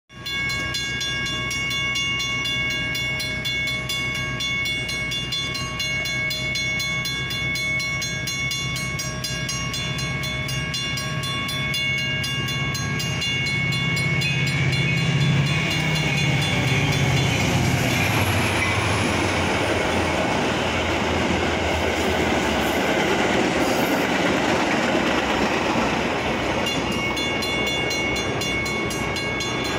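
A grade-crossing bell rings quickly and steadily while a Metra commuter train approaches with a rising low rumble. About halfway through, the train passes, and the louder steady noise of its wheels and cars on the rails covers the bell. The bell rings clearly again near the end as the train goes by.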